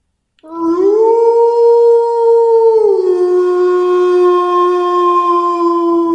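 Wolf howling: one long howl starting about half a second in, rising and holding, then dropping a little in pitch about three seconds in and holding steady at the lower note.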